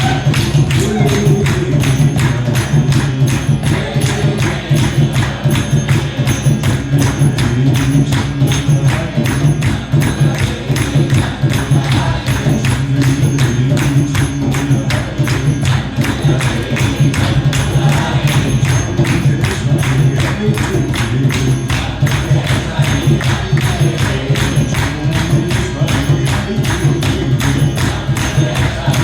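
Kirtan music: voices chanting over a steady low drone, with a fast, even beat of jingling percussion strikes.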